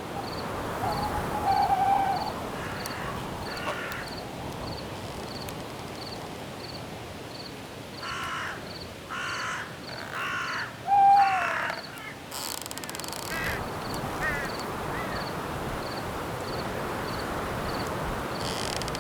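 Night forest ambience: a steady hiss of wind in the branches, with crickets chirping about twice a second throughout. About eight seconds in, four harsh cawing bird calls come in quick succession, and short owl-like hoots sound early on and just after the caws, the second being the loudest sound. A brief rustle follows about twelve seconds in.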